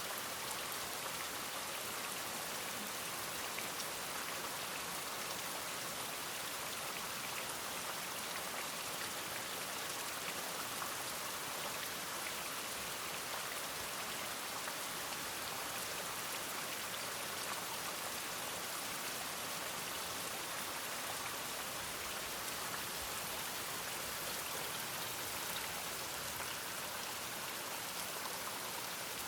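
Steady rain falling, an even hiss of drops with no break or distinct event.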